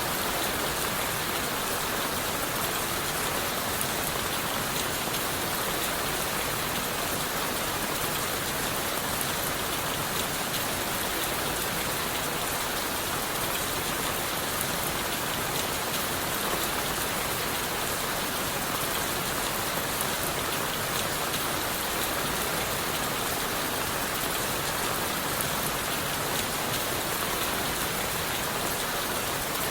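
Steady rain falling on leaves and wood: an even hiss of rainfall with fine patter of individual drops, holding constant without let-up.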